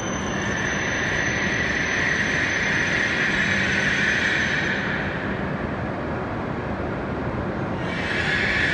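A Shinkansen train running unseen in the tunnel beyond the underground platform: a steady rushing rumble with a high hiss that swells, fades about five seconds in and swells again near the end.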